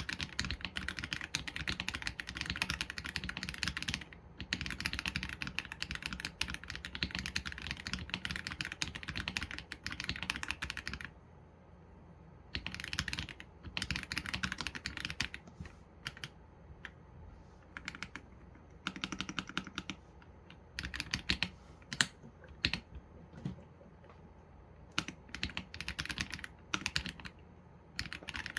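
Mechanical keyboard typing on an AULA F87 Pro with Leobog Graywood V3 linear switches and PBT keycaps. There are long fast runs of keystrokes for the first eleven seconds or so, then shorter bursts and single key presses with pauses between them.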